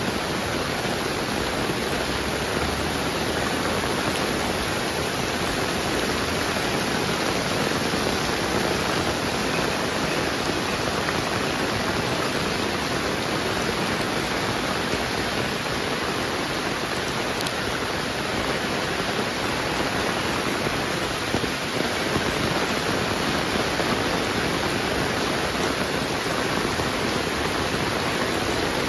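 Heavy rain falling, a dense steady hiss with no letup.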